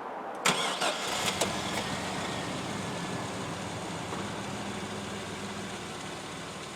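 Chevrolet S-10 pickup engine cold-started: the starter cranks briefly about half a second in, the engine catches, then settles into a steady idle.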